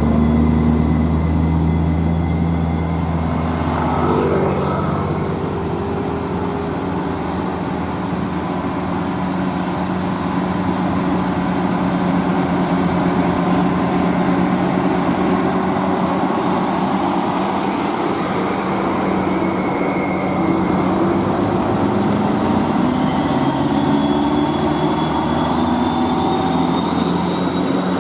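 Heavy diesel truck engine running steadily under way, its pitch shifting slowly with speed.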